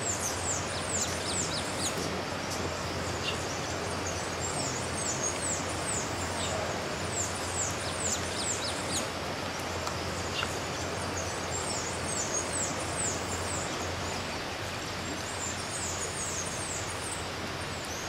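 Steady hiss of forest ambience with runs of thin, very high bird notes, several quick notes to a run, coming and going every second or two.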